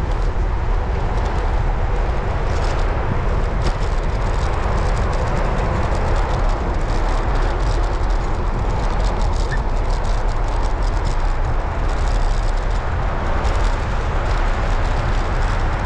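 Steady rush of wind on the microphone and tyre noise from a road bike being ridden, with scattered light ticks.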